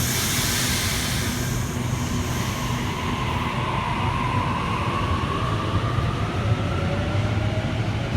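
Sydney Trains Waratah (A-set) electric train pulling away from the platform. A hiss of air fades over the first couple of seconds, then the traction motor whine rises slowly in pitch as the train gathers speed, over a steady low rumble.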